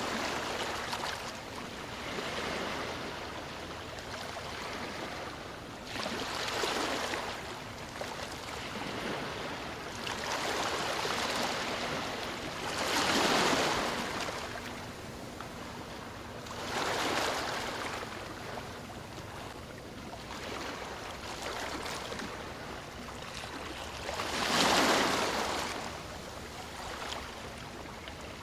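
Ocean waves washing ashore: a steady hiss of surf that swells and fades in surges every few seconds, the loudest about halfway through and again near the end.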